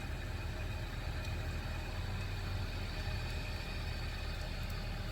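An engine running at a steady idle: a low, even rumble.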